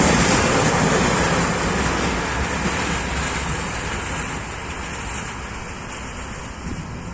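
Class 335 diesel locomotive's freight train of empty coil wagons rolling past on the track, a steady rumbling noise that fades gradually as the train draws away.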